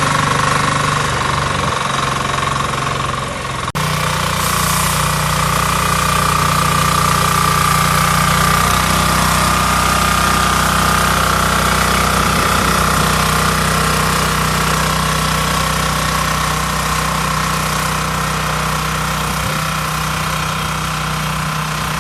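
10 HP diesel engine of a mini crawler orchard fertilizer spreader running steadily with a knocking diesel clatter, a steady high whine riding above it. A cut about four seconds in, and the engine carries on.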